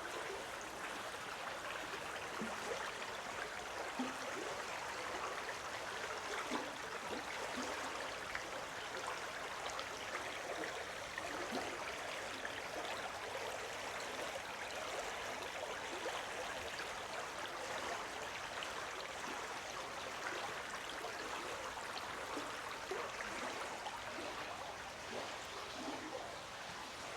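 A stream running steadily with a continuous trickling, burbling flow of water.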